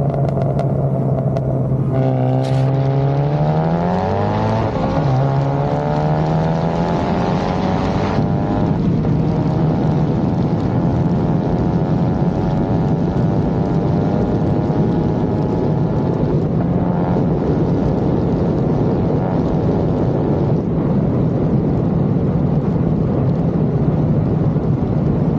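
Turbocharged car engine at full throttle in a race: it holds a steady pitch, then climbs in pitch for a couple of seconds, drops at a gear shift about five seconds in, and runs on at high speed with a slowly rising pitch under heavy wind and road noise.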